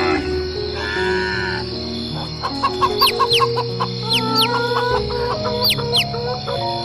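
Chickens clucking in a short rapid run and birds giving several quick falling chirps, over background music.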